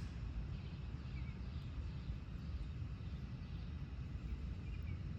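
Low steady rumble, with a faint even hiss above it.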